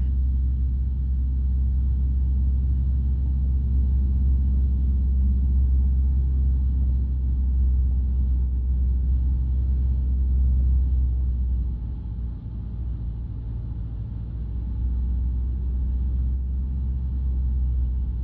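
Light aircraft's piston engine running steadily, heard in the cockpit as a deep, even drone. About twelve seconds in it drops lower and quieter, then comes back up a few seconds later.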